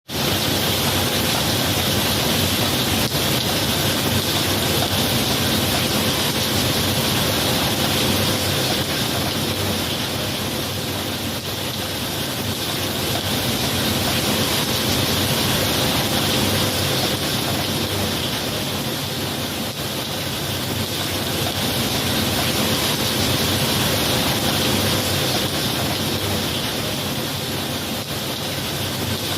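Steady rain falling, a constant dense hiss that swells and eases a little in level.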